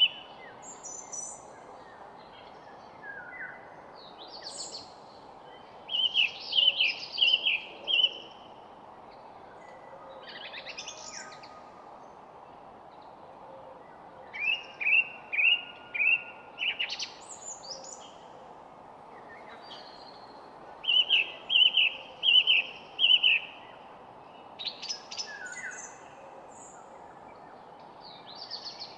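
Songbirds singing: short phrases of four to six quick notes come every few seconds, with scattered higher chirps between them. A steady low hiss runs underneath.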